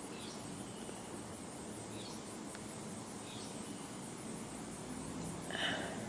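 Outdoor ambience with a bird's faint, short, high chirps repeating every second or two, and one louder brief call about five and a half seconds in.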